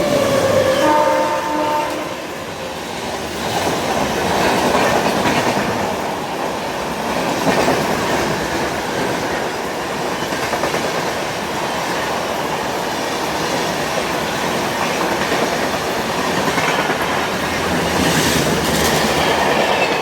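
Fast express passenger train, the Kanyakumari Express, sounding its horn, which ends about two seconds in. Then the train keeps passing at speed, its wheels clattering over the rail joints.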